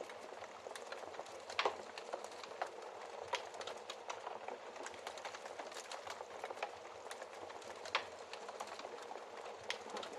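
Fireplace fire crackling: a steady soft hiss with many small snaps and a few louder pops, the loudest about a second and a half in and again near eight seconds.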